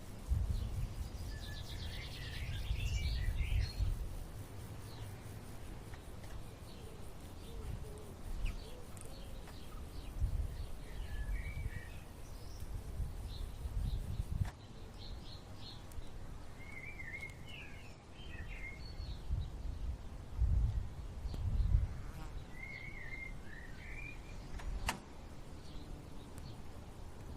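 Small birds chirping intermittently in short, twittering phrases, with bursts of low rumble coming and going underneath and a single sharp click near the end.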